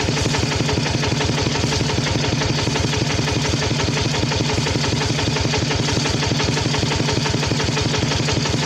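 Engine of a Khmer farm tractor running steadily at constant speed, with a fast, even beat.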